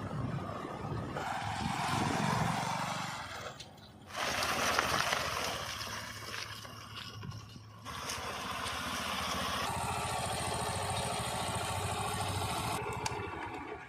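Heavy diesel machinery running while working wet mud, with scraping noise. It is heard in several short clips that cut abruptly from one to the next every two to four seconds.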